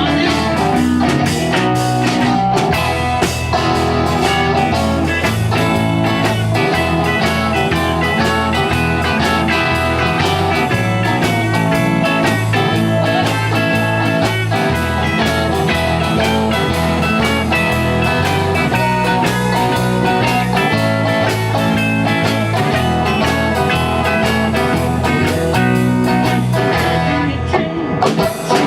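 A rock band playing a blues-style number, with guitar to the fore over a steady bass line and drums, and no singing.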